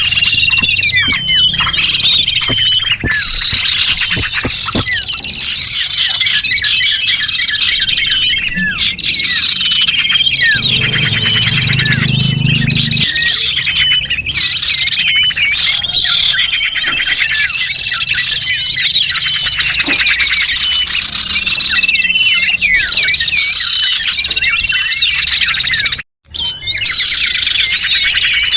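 Recorded lure call of small songbirds: dense, continuous high chirping and twittering trills from many birds at once. It cuts out for a split second about 26 seconds in.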